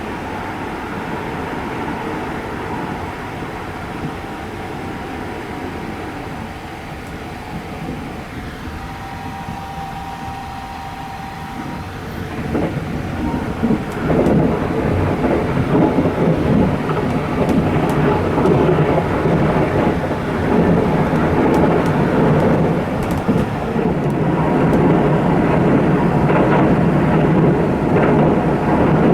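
Running noise of the 285-series Sunrise Express sleeper train, a steady rumble of wheels on rail heard from inside the carriage. About twelve seconds in it grows louder and rougher and stays so.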